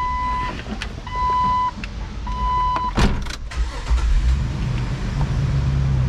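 A Jeep Wrangler's warning chime beeps three times, steady single-pitch beeps about a second apart. About three seconds in, the starter cranks briefly and the engine catches and settles into a steady low idle.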